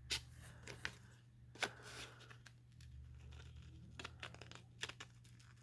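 Faint rustling and crinkling of paper being handled, with a few light taps and clicks, over a low steady hum.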